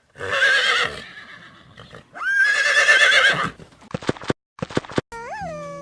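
Horse neighing twice with a wavering, shaky pitch, followed by a few clip-clop clicks of hooves around four seconds in.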